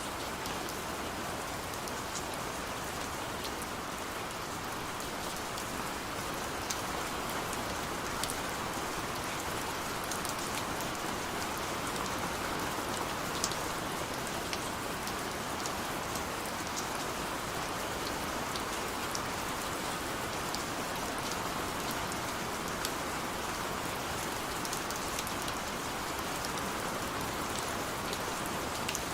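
Steady rain with scattered sharper drop ticks, a few of them louder, heard against a window.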